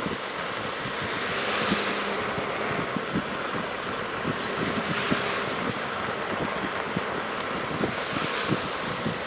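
Traffic passing on a wet city street: tyres hiss in three swells that rise and fade, over scattered small low knocks.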